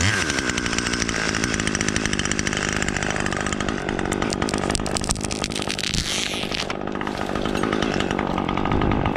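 Chainsaw running steadily, with a fast, dense chatter throughout.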